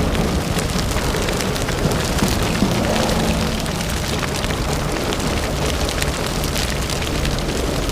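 Sound effect of a forest fire burning: a steady rushing noise with a low rumble underneath and many small crackles and pops.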